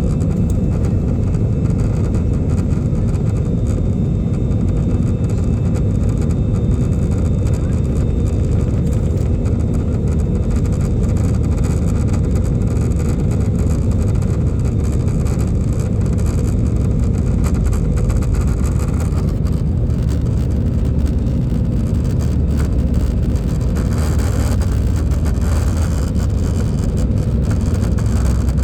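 Airbus A320 cabin noise during the takeoff: a loud, steady low rumble of the jet engines and airflow, with a brighter rushing hiss swelling about 24 seconds in.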